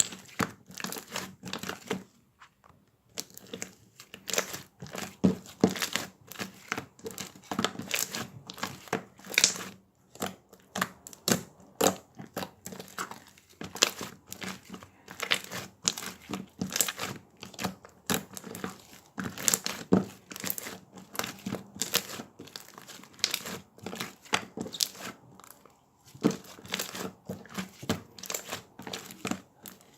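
Slime being squished and stretched by hand: a dense, irregular run of sticky clicks, pops and crackles, with a short pause about two seconds in.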